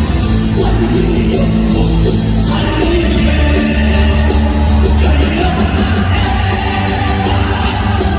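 Live Korean praise music: a band with bass and drums playing a loud, steady beat while voices sing.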